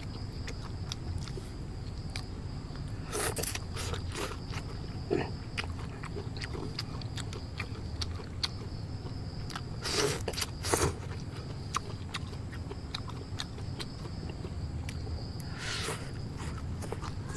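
Forest ambience at dusk: a steady high insect drone over a low background rumble, with scattered small clicks and a few louder scraping sounds from handling things close by.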